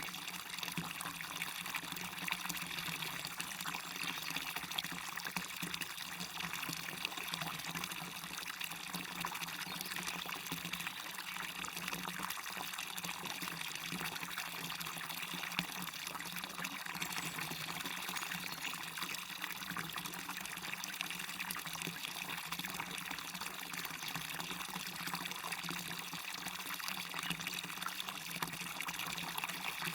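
Waterfall water splashing and rushing steadily, an even hiss of falling water that stays the same throughout.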